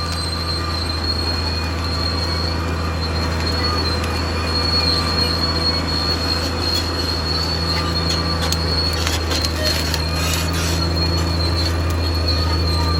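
Caterpillar D6R XL bulldozer's diesel engine running steadily under load, with a steady high-pitched squeal from the machine and a few metallic clanks a little past the middle.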